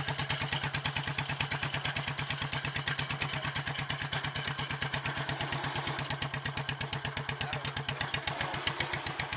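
Kohler 16 hp K-series single-cylinder engine of a modified Cub Cadet pulling tractor idling through its header pipe, a steady, even chug of firing pulses.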